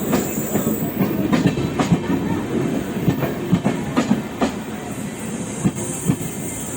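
Passenger train coaches rolling by, wheels clattering with irregular knocks over rail joints above a steady rumble; the sound eases off about five seconds in.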